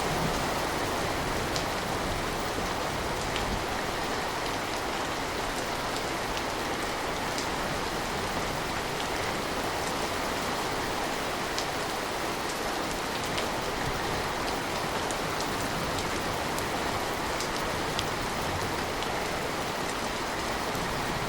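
Steady rain falling by a window, an even hiss with scattered sharp ticks of single drops. A low rumble of thunder dies away in the first second.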